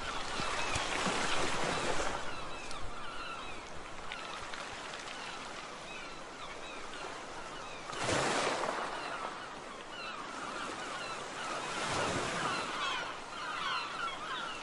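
Many short bird calls, as from a flock, over a steady rushing noise that swells twice, about eight and twelve seconds in.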